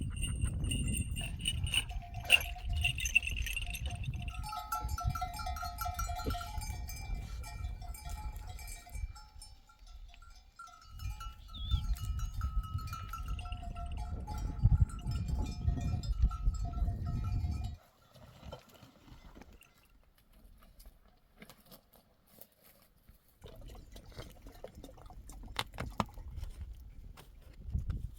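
Bells on a grazing sheep flock clanking and ringing, several pitches at once, over a low rumbling noise. The bells and rumble fade out about 18 s in, leaving it faint, and the rumble returns about 23 s in.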